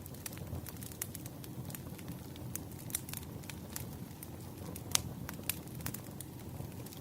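Bonfire crackling: wood snaps and pops at irregular intervals over the low, steady rumble of the flames, with one louder pop about five seconds in.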